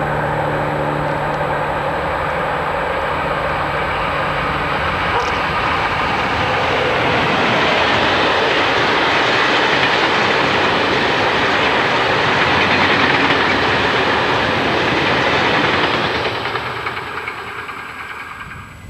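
Freight train hauled by an electric locomotive passing close by: a steady low hum at first, then the rolling noise of a long rake of steel goods wagons on the rails grows loud and holds, and fades away over the last few seconds as the train goes by.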